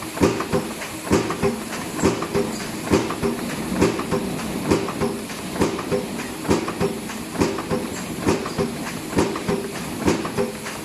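HAFA-70 automatic saw-blade machine running, fitting serrated cutting blades onto printed boxes. It goes in a regular clacking cycle, a knock about every 0.9 seconds with lighter clicks between, over steady machine noise.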